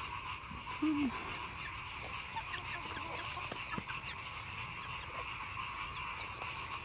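A single short animal call, dropping slightly in pitch, about a second in. It sits over a steady, high-pitched background chorus.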